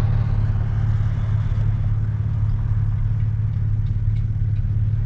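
Vehicle engine idling while stopped, heard from inside the cabin as a steady low drone.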